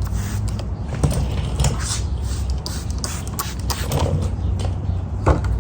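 Stain being rubbed over a wooden bench: irregular scraping and rubbing strokes, over a steady low hum.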